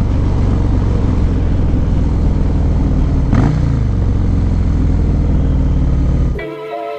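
Harley-Davidson motorcycle's V-twin engine running steadily while being ridden. About six seconds in, it cuts to background music.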